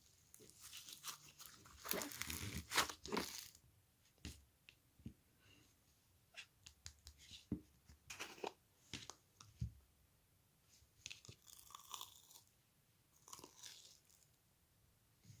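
Irregular close-up crunching and crackling, a quick cluster in the first few seconds then scattered crackles every second or two.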